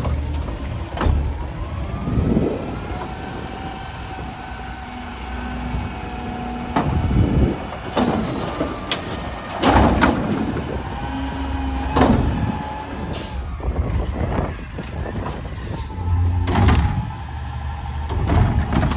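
Garbage truck working its route: the diesel engine runs steadily under repeated air-brake hisses and sharp mechanical clanks, with a few gliding hydraulic-type whines.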